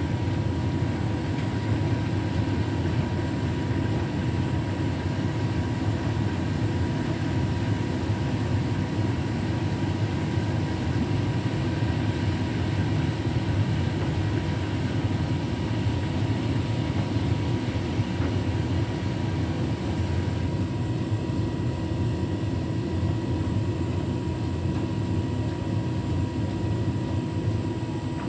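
Beko WTK104121W washing machine running steadily, its drum turning at low speed as it tries to even out an unbalanced load. The intermediate spin has not started.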